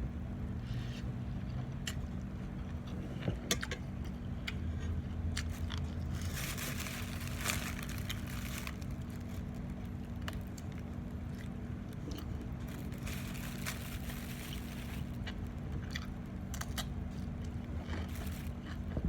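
Close-up eating sounds: chewing and crunching mouthfuls of Thai instant noodle salad and pork sausage. Scattered sharp utensil clicks and scrapes come through, with two longer stretches of crunchy chewing. A steady low hum sits underneath.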